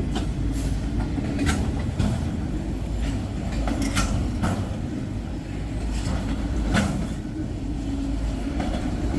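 Freight train cars rolling past on the adjacent track: a steady low rumble of wheels on rail with irregular sharp clicks and clanks every second or so, at a spot the listener points to as a bad spot in the rail.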